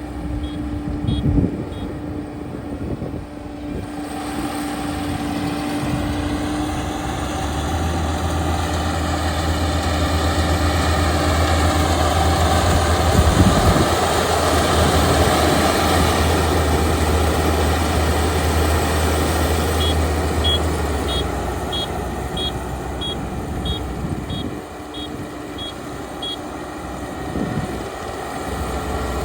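Kubota ER572 combine harvester's diesel engine and machinery running steadily, getting louder and deeper through the middle. A run of short, high electronic beeps sounds near the start and again about two thirds of the way in.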